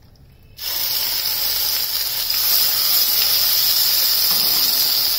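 Ground onion paste frying in hot oil in a pan, a loud steady sizzle that starts suddenly about half a second in as the paste hits the oil.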